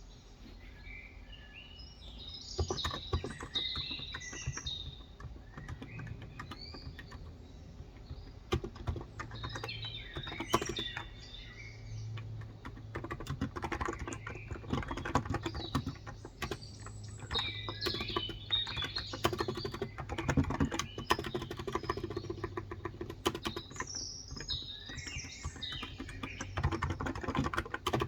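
Typing on a Cox Endeavor electrostatic capacitive keyboard with light 35 g keys, in bursts of rapid keystrokes that start a couple of seconds in, while birds chirp throughout.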